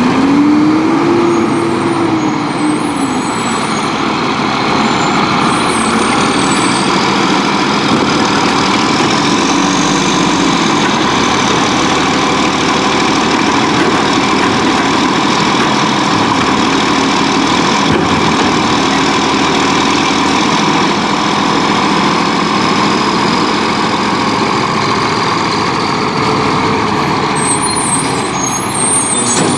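Volvo WXLL garbage truck's diesel engine running loudly. Its pitch rises over the first second or two, and a high whine swells and fades through the middle.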